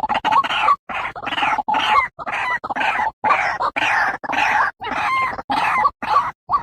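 White-breasted waterhen (ruak-ruak) calling: a continuous run of hoarse, croaking notes, roughly one and a half a second, as played from a lure recording.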